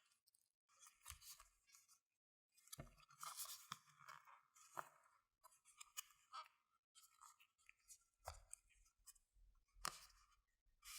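Google Pixel Watch packaging handled up close: soft, scattered rustles and crinkles of paper and cardboard, with a few light clicks and taps, the sharpest about eight and ten seconds in.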